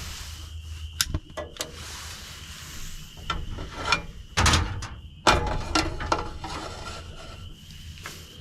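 Irregular clicks, knocks and scraping of hands working with tools on a hard surface, loudest in a cluster of sharp knocks around the middle.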